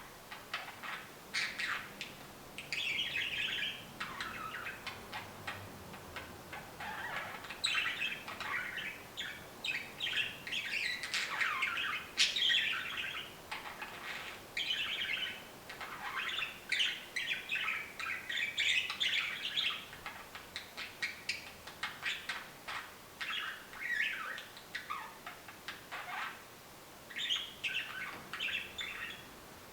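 Budgerigar singing: long runs of rapid chirps, clicks and warbled notes, with a few short pauses between phrases.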